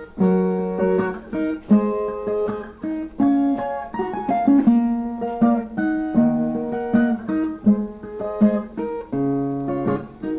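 Viola, the Brazilian ten-string guitar, playing a plucked instrumental interlude between sung verses: a quick run of single picked notes over lower bass notes.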